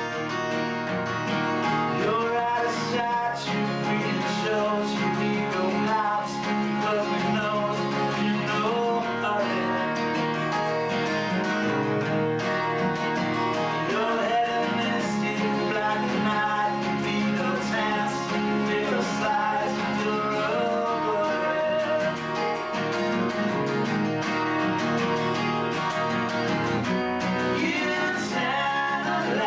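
Live acoustic guitar music played in rehearsal, recorded through a basic VHS camcorder microphone.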